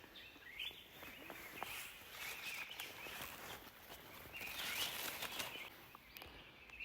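Forest ambience: small birds chirping in short warbling phrases again and again, over a faint background hiss with scattered light clicks.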